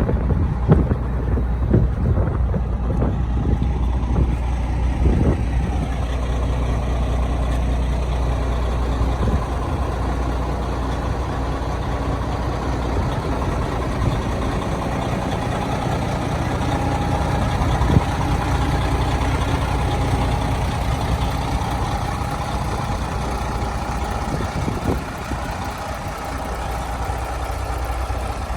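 1999 Kenworth W900B truck tractor's diesel engine running steadily, with a thin steady tone joining about halfway through and fading near the end.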